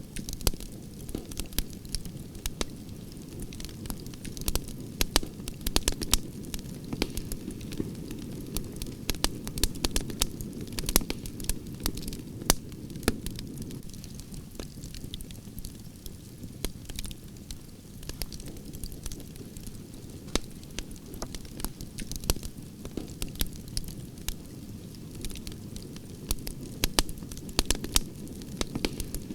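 Wood fire of burning branches crackling, with a steady low rush of flames and frequent sharp, irregular pops and snaps.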